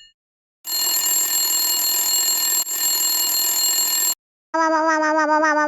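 An alarm bell ringing steadily for about three and a half seconds, then cutting off sharply. An instrumental children's tune starts near the end.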